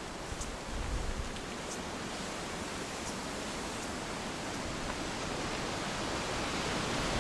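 Steady rushing outdoor noise with no clear single source, slowly swelling, with a few low wind buffets on the microphone about a second in.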